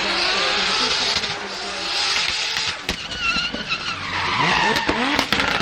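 Drift car sliding with its tyres screeching while the engine revs rise and fall, with a few sharp cracks in between.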